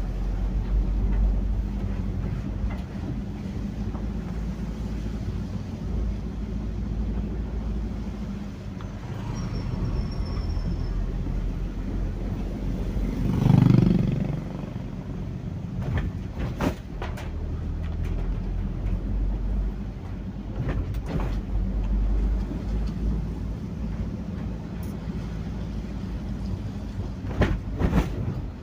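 Heavy rain with gusting wind, the wind buffeting the microphone as a low rumble; a louder gust swells about halfway through, and a few sharp knocks come later.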